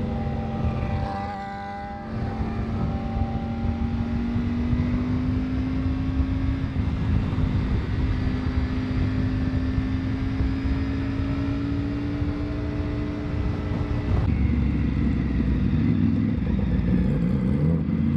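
Motorcycle engine running at speed under rushing wind, its note climbing slowly and steadily for about twelve seconds, then changing abruptly to a lower, rougher rumble about fourteen seconds in.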